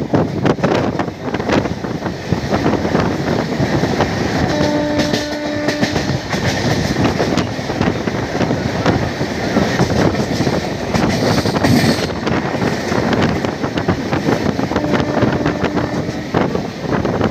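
Passenger train running at speed, heard from a coach: steady rattle of wheels over the track with rushing air. A train horn sounds for about a second and a half, roughly five seconds in, and again more faintly near the end.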